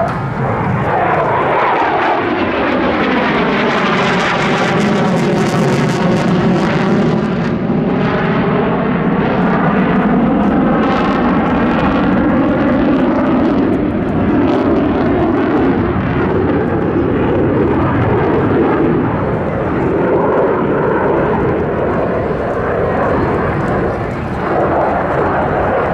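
RF-4 Phantom jet flying past, the loud noise of its two J79 turbojets sweeping in pitch as it goes by and then running on steadily as it moves away.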